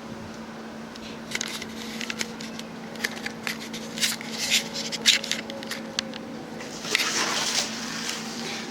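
Irregular crackling and scraping clicks over a steady low hum, with a brief rush of rustling noise near the end.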